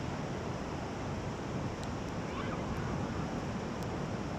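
Steady rush of sea surf breaking on a sandy beach, with wind buffeting the microphone.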